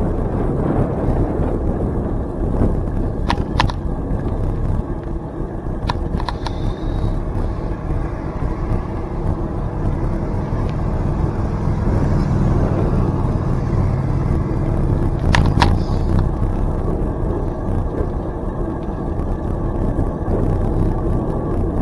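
Wind rumbling on the microphone during a bicycle ride, with the bike rolling along the trail and three sharp clicks.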